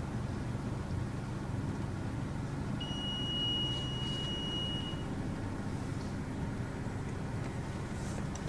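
Steady low rumble of a car and automatic car-wash machinery heard from inside the car, with a single high electronic beep held for about two seconds near the middle.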